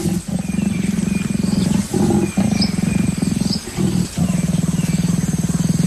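Leopard growling during courtship: several long, low growls with short breaks between them. Faint insect chirps sound in the background.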